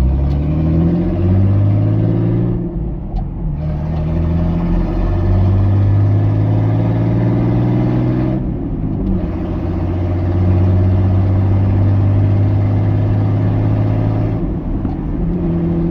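Jeep engine running with its exhaust removed, revved up three times and held for a few seconds each, dropping back in between. It sounds pretty mean.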